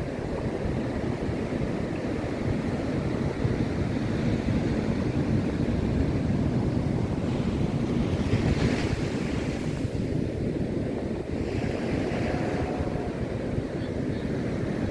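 Ocean surf washing on the beach, with wind buffeting the microphone, a steady low rumbling noise; a brief brighter hiss rises over it about eight seconds in.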